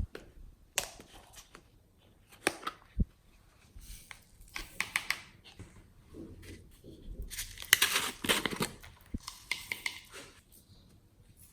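Glossy slime being squished and stretched by hand: sticky clicks and crackling pops at irregular intervals, with a denser run of crackling about two thirds of the way through.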